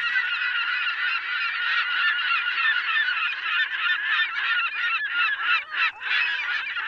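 A large flock of birds calling, with many short calls overlapping in a dense, continuous din.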